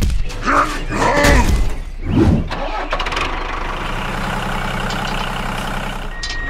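Tractor engine running at a steady idle from about three seconds in, after a few short, irregular sounds at the start.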